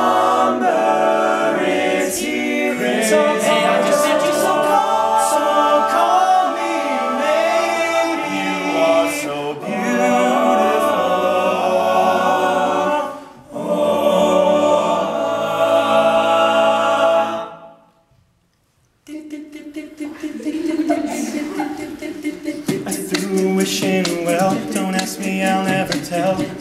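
Male a cappella group singing in close multi-part harmony over a sung bass line. The singing breaks off about eighteen seconds in for a second of near silence, then resumes, thinner.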